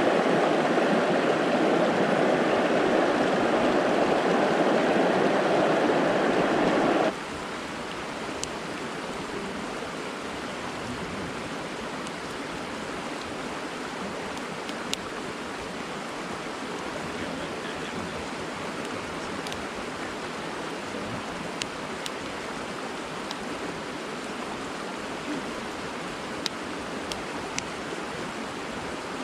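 Brook water rushing steadily. About seven seconds in it drops abruptly to a softer, steady rush, with a few faint ticks here and there.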